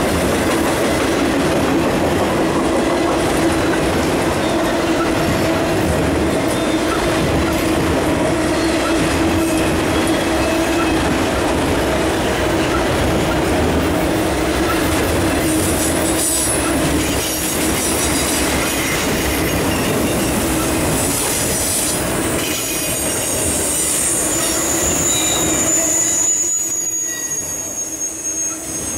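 Autorack freight cars rolling past, steel wheels running and clattering on the rails with a steady squeal. A thin, high-pitched squeal comes in near the end.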